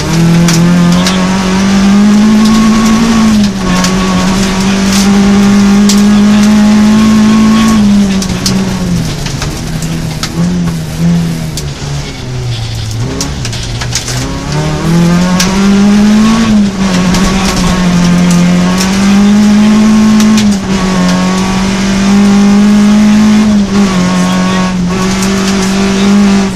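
Rally car engine heard from inside the cabin, held high in the revs for long stretches, dropping away and climbing back several times as the driver shifts or lifts, with road noise underneath.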